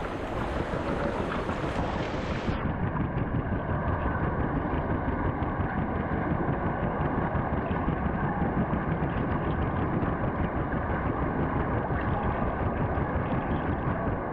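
Water churning and splashing around a swim camera at the surface of a pool. About two and a half seconds in the sound turns muffled as the microphone goes under, and from then on it pulses rapidly and evenly with the water's movement.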